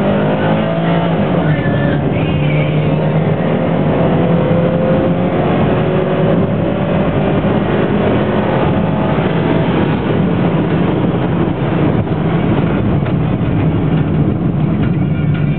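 Subaru Forester 2.0 XC's flat-four engine revving high under hard acceleration with the automatic gearbox, its pitch rising slowly over the first several seconds, then running steadily at high revs.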